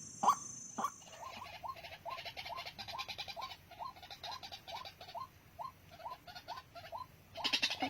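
A bird calls in a rapid series of short, similar notes, about three a second, the first couple louder. Near the end comes a brief burst of rustling or scratching.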